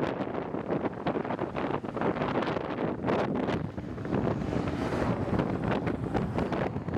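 Strong, gusty wind from a nearby tornado blowing across the microphone, buffeting it in uneven surges.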